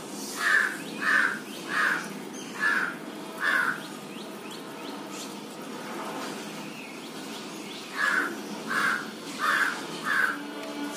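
Repeated bird calls: a run of five short calls about three-quarters of a second apart, a pause, then four more near the end.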